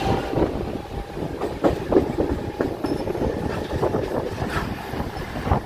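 Mumbai suburban local train running, heard from inside the coach: wheels clattering over the rails and the coach rattling, with irregular knocks.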